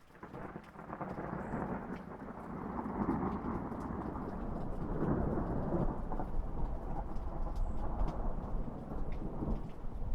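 A long roll of thunder that swells up in the first second or two and keeps rumbling, over rain with scattered drips.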